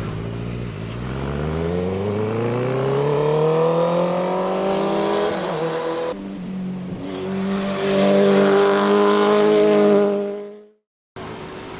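Motorcycle engine accelerating hard, its pitch rising steadily for about five seconds. After an abrupt cut about six seconds in, another motorcycle runs at high, steady revs, then the sound fades and cuts off near the end.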